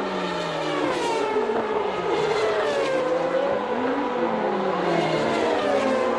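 Several 1989 Formula One cars' naturally aspirated 3.5-litre engines at racing revs. Their pitches overlap and rise and fall as the cars change gear and pass.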